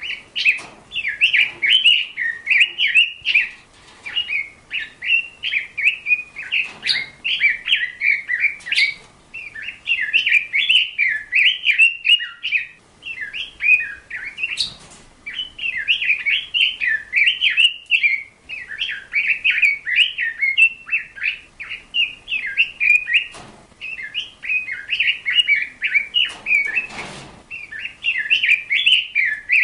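A small bird singing a continuous, rapid twittering warble of quick high chirps, with a few brief knocks.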